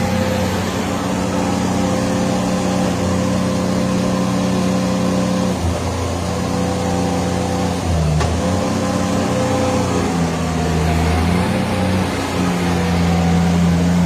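Derette V1000 mini skid steer loader's engine running steadily, its pitch dipping briefly a few times: about six seconds in, again near eight seconds, and once more a few seconds later.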